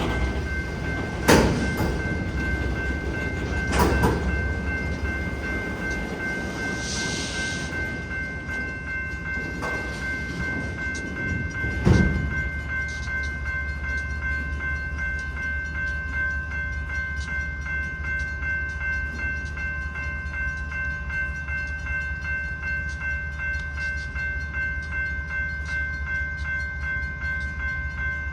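Safetran railroad crossing bell ringing steadily over the low rumble of a slow-moving BNSF autorack freight train. Sharp metallic bangs from the train come about a second in, at about four seconds and at about twelve seconds.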